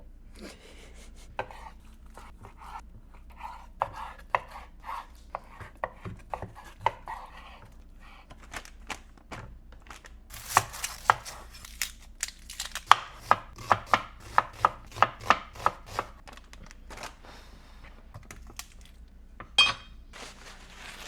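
Knife rough-chopping an onion on a cutting board: a series of sharp knocks, scattered at first, then quicker and louder from about halfway through, at roughly two to three a second.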